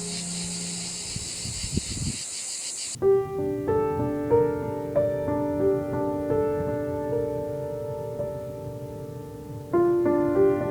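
Cicadas singing in a high, pulsing drone over soft background music, cut off abruptly about three seconds in. Piano music with slow, ringing notes follows.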